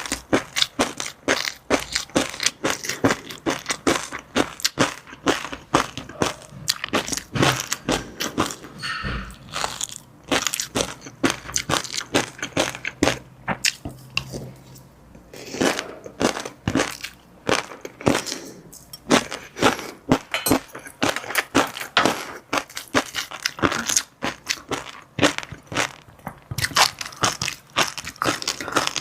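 Close-miked eating sounds: rapid, sharp crunching and popping as fish roe and crunchy chili-garlic seafood topping are chewed, with a brief quieter pause midway.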